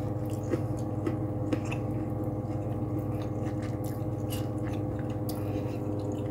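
A person chewing a bite of breaded, air-fried mac and cheese ball, with a few faint crisp clicks, over a steady machine hum.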